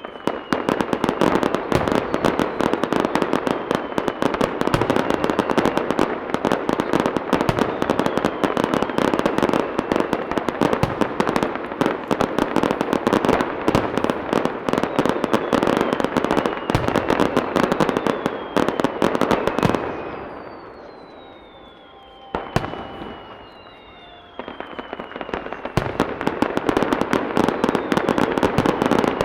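Dense fireworks barrage: rapid crackling reports and bursts of aerial shells, with several falling whistles. The barrage eases off for a few seconds about two-thirds of the way through, then builds up again.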